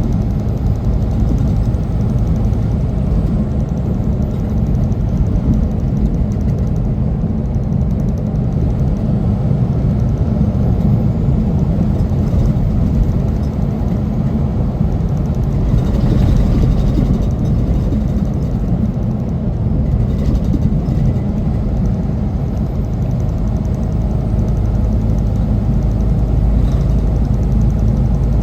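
Semi truck on the move: a steady low rumble of engine and road noise.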